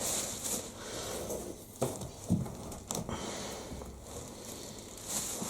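Rustling and handling noise as gloved hands pull clumps of wet lint out of a condenser tumble dryer, with a few light knocks against the machine near the middle.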